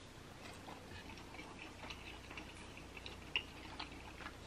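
Faint close-miked chewing of a bite of birria quesadilla: soft, scattered wet mouth clicks, one a little sharper about three and a half seconds in.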